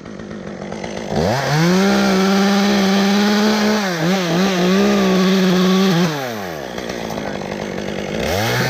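Chainsaw revving up about a second in and running at full throttle through a cut into the tree. Its pitch dips briefly midway as the saw loads in the wood, then it drops back to idle about six seconds in, with a short rev near the end.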